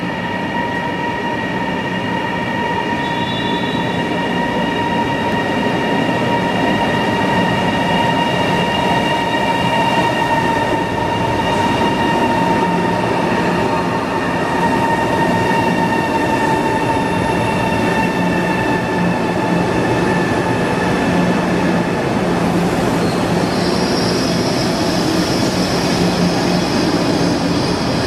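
Siemens Velaro CRH3C high-speed electric train running in past the platform over a steady rush of wheels on rail. Several high whining tones sink slowly in pitch as it slows. A higher squeal joins about three-quarters of the way through.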